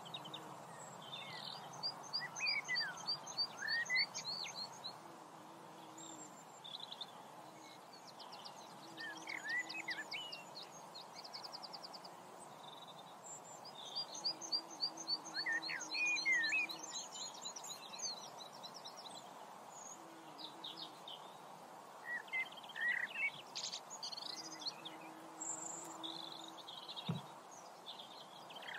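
Songbirds singing: rapid high trills of repeated notes and short whistled slurs, several overlapping, over a steady background hiss.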